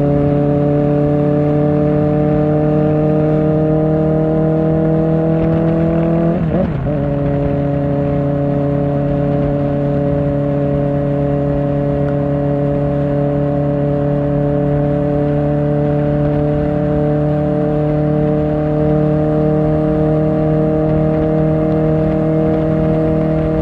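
Kawasaki Ninja ZX-4R's inline-four through an Akrapovic exhaust under steady throttle on the move. The engine note climbs slowly, drops with a quick upshift about six and a half seconds in, then holds nearly steady.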